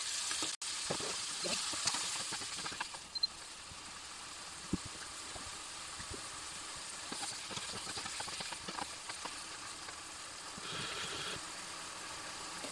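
Chicken liver and onions sizzling in a frying pan: a steady hiss with scattered small pops and crackles.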